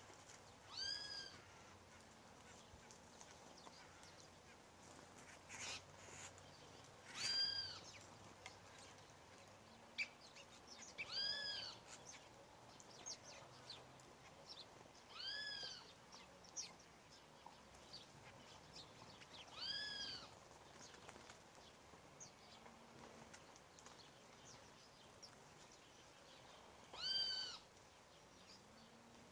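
An animal's high, arching meow-like call, repeated six times at intervals of about four seconds, with faint clicks and chirps between the calls.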